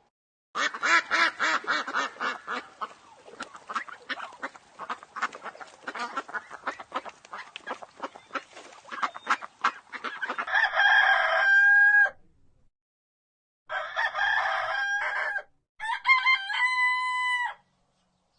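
Chickens: a run of rapid, uneven clucking for about ten seconds, then three long crowing calls in a row.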